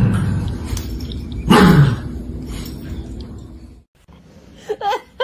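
A dog giving two deep barks, one right at the start and one about a second and a half later, each dropping in pitch. Near the end, after a brief break, a person starts laughing in quick bursts.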